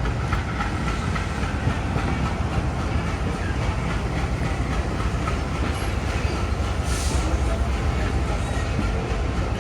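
Steady low rumble and noise of a diesel-hauled passenger train, with a brief hiss about seven seconds in.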